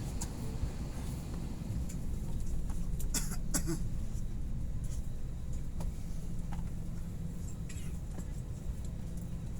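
Airliner cabin noise before takeoff: a steady low rumble and hum from the engines and air system, with a few faint clicks.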